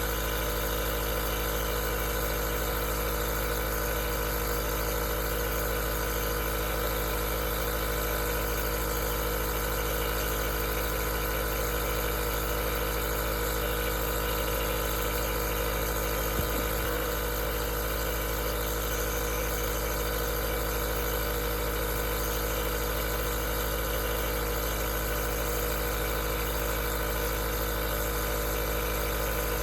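Aerosol nebulizer running steadily: a constant motor hum with an even hiss over it. There is one faint tick about halfway through.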